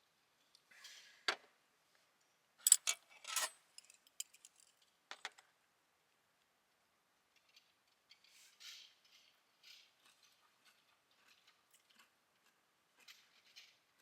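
Scattered small clicks, taps and short rustles of objects being handled, with the loudest, a quick cluster of sharp clicks, about three seconds in.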